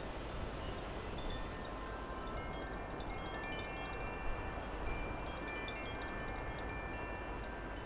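Wind chimes ringing irregularly at several high pitches, with a steady low wind rumble on the microphone.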